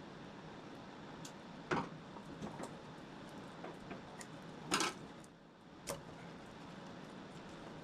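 Scattered clicks and knocks of hand work in an engine bay while wiring harness connectors are unplugged, over a steady background hum. The loudest knocks come about two, five and six seconds in.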